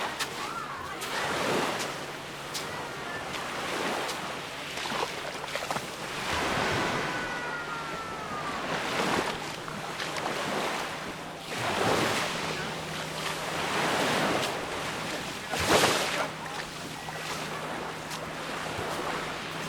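Small Mediterranean waves breaking and washing up on the beach, swelling and falling every two to three seconds, with a faint steady low hum underneath.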